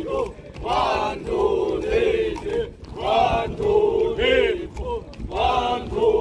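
A group of trainees chanting exercise counts in unison, one loud shouted phrase about every second.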